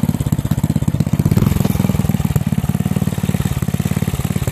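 5 hp Briggs & Stratton single-cylinder small engine running steadily with an even, rapid firing beat.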